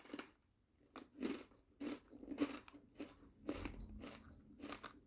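A person chewing crunchy spicy Dorito-flavoured chips with the mouth close to the microphone, a crunch about every half second.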